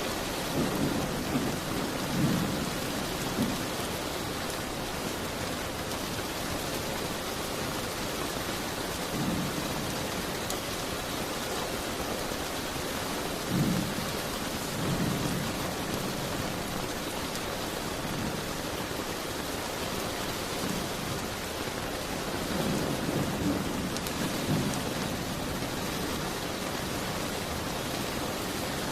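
Steady rain falling, an even hiss throughout, with low muffled rumbling swells every few seconds.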